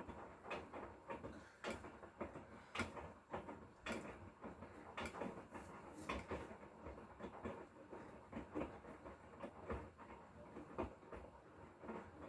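Hotpoint Core 8 kg washing machine with an inverter motor running its drum, with irregular knocks and clicks a few times a second over a faint hiss.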